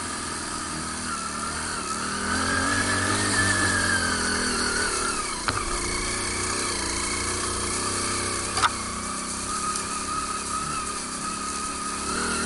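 A small motorbike's motor running hard on a steep uphill climb, its whine rising and falling in pitch. Two sharp knocks come about halfway through and again about two-thirds of the way in.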